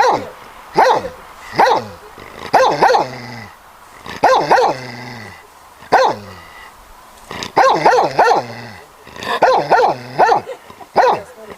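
Dog barking repeatedly in short, sharp barks, roughly one a second, some in quick pairs or triplets.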